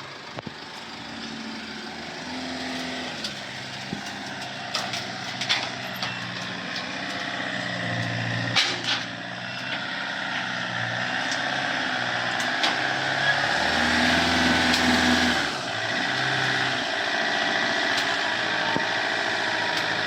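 Citroën Jumper van's diesel engine running and revving in steps as it is driven up onto a car transporter truck, with several sharp metallic knocks. The engine grows louder as it goes, with a longer, stronger rev about two-thirds of the way through.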